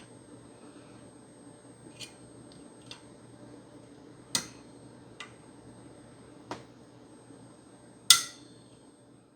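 Tool prying at the spring clips of an Xbox One S CPU heat sink: a series of six sharp metallic clicks and taps a second or so apart, the loudest about eight seconds in, over a faint steady hum.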